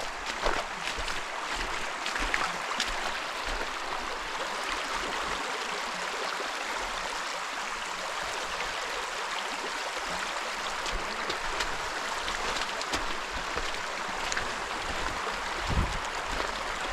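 Shallow creek water rushing steadily around a kayak, with a few light knocks scattered through.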